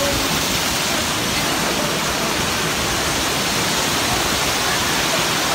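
Torrential rain pouring down and splashing onto a flooded pavement, a steady, even rush of water.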